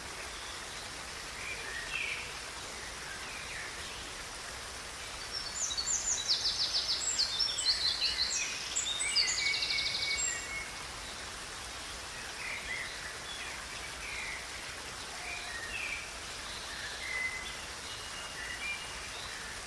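Songbirds chirping and trilling over the steady rush of a river, with a busy stretch of song in the middle and scattered calls either side.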